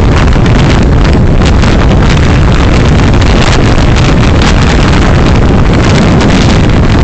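Steady, loud wind and road noise of a moving car, picked up by a dashcam microphone, with the wind buffeting the microphone.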